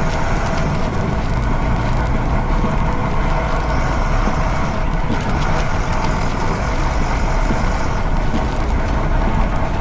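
Heavy construction-vehicle engine running steadily with a continuous rumble.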